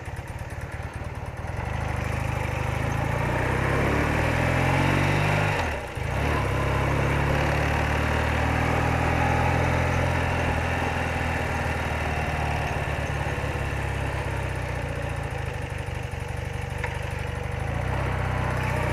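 BMW R80RT's air-cooled flat-twin boxer engine pulling away with the revs climbing. Its level dips briefly about six seconds in, as at a gear change, before the engine runs steadily at road speed.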